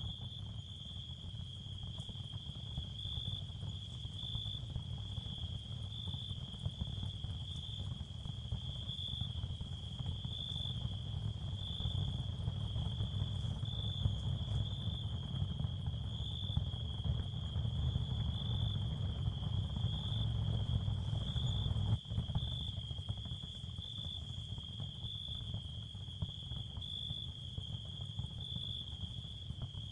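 Ambient sound-therapy soundscape: a steady, cricket-like high chirring tone that pulses gently about once a second, over a low rumbling wash of noise. The rumble swells toward the middle and drops out for an instant about 22 seconds in.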